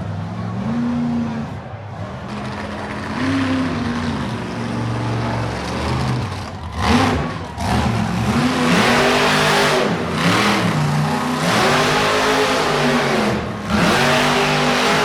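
Monster truck engine revving again and again, its pitch climbing and dropping every second or two, with louder, noisier stretches as it is pushed harder.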